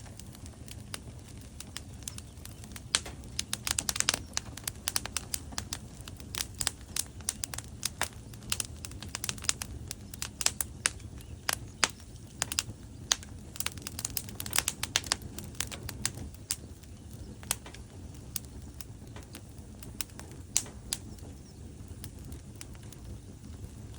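Wood fire burning in a fireplace: frequent sharp crackles and pops from the burning logs over a low steady rumble of the flames, busiest in the middle stretch and thinning out toward the end.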